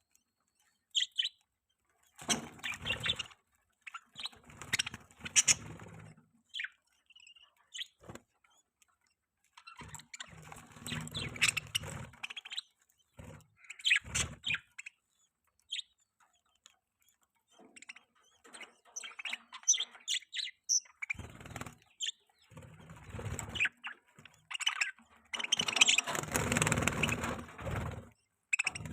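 Budgerigars chirping and chattering in irregular bursts, with short silent pauses between them.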